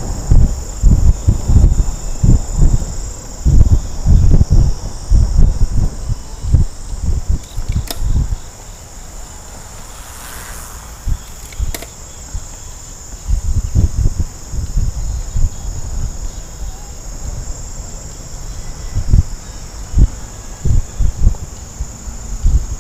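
A steady, high-pitched chorus of insects, with gusts of wind buffeting the microphone during a moving bike ride; the wind drops off for a few seconds in the middle.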